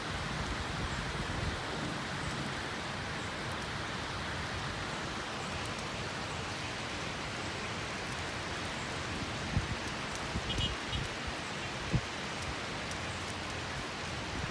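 Steady heavy rain falling: an even hiss, with a few soft low thumps a little past the middle.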